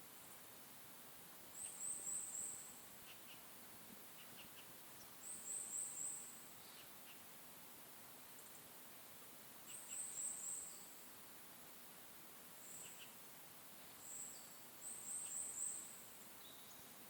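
A small songbird singing a very high, thin trilled phrase about a second long, four times at roughly four-second intervals, with a couple of shorter notes between. Faint soft ticks and a quiet hiss lie underneath.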